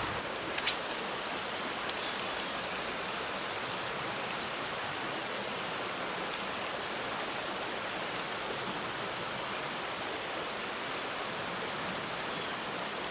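Creek water running steadily over rocks, an even rushing sound, with a brief click about half a second in.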